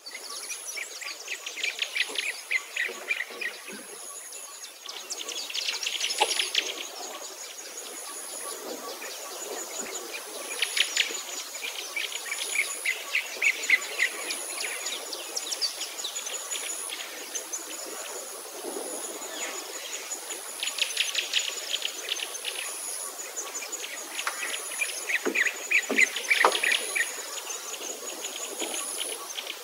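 Songbirds singing in repeated bursts of rapid chirps and trills, over a thin, very high-pitched note that pulses about once a second.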